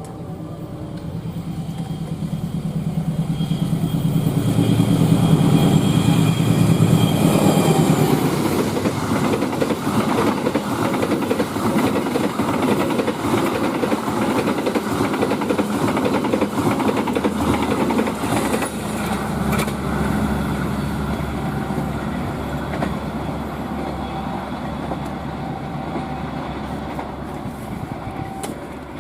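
Diesel-hauled passenger train passing close by. The locomotive's engine builds to its loudest about five to seven seconds in, then the carriages follow with a long run of rapid wheel clatter on the rails, easing to a fading rumble near the end.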